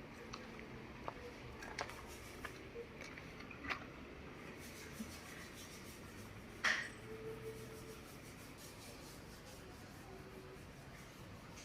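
Steady low background noise with scattered light clicks and knocks, the loudest a single sharp knock about seven seconds in.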